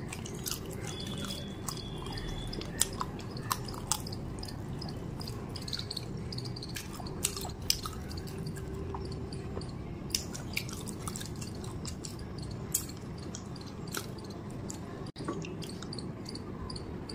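Close-miked chewing, with scattered wet mouth clicks and smacks over a steady low background hum.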